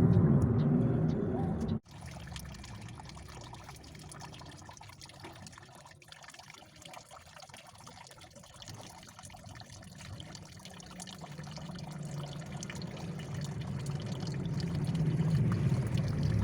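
Water trickling and splashing with many small patters, as an oriental magpie-robin bathes. The first two seconds hold a louder low rumble that cuts off abruptly.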